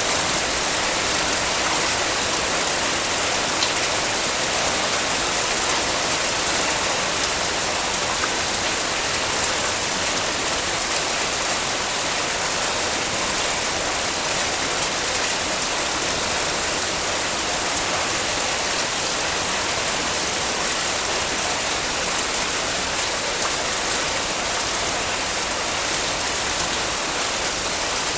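Heavy rain falling steadily: an even hiss of rain with faint patter of drops.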